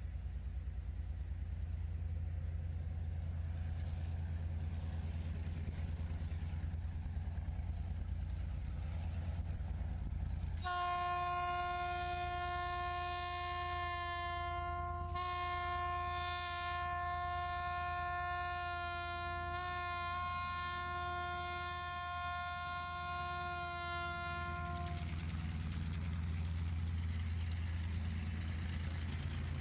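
Diesel locomotive air horn sounding one long blast of about fourteen seconds, briefly broken twice, over a steady low engine rumble.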